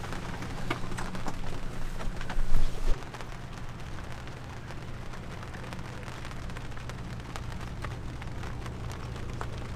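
Rain falling on a sailboat and its deck, a dense patter of small drops ticking. A louder low rumble runs under it for the first three seconds and cuts off suddenly.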